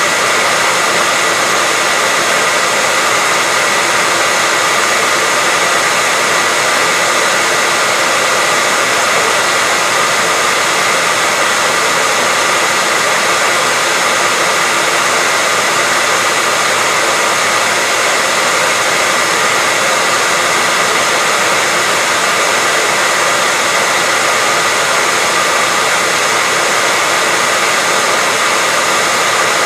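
Hair dryer running steadily with a constant airy whoosh and a faint high motor tone, unchanging throughout, played as white noise to soothe a baby to sleep.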